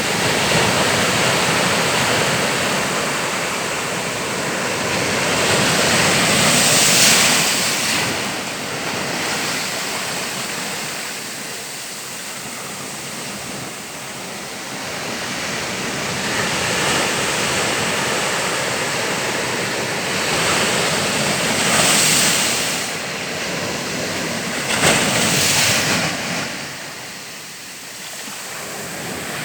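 Rushing water, a steady roar that swells louder and eases back several times.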